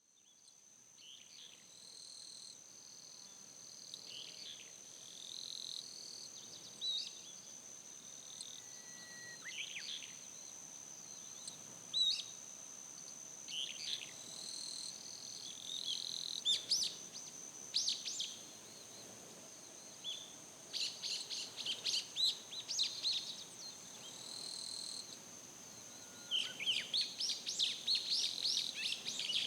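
Wild birds chirping and calling in short, rapid phrases that come more often in the second half, over a continuous high-pitched insect drone.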